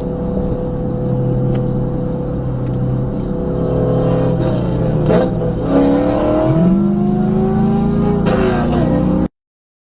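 Car engine under hard acceleration. Its pitch dips and climbs again about five seconds in, as at a gear change, then rises steadily before the sound cuts off abruptly near the end.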